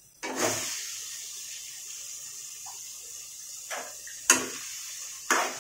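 Raw chicken pieces going into hot oil and frying onions in a metal kadhai: a sizzle that starts abruptly just after the start and keeps going steadily, with a few sharp knocks in the second half as the pieces are stirred.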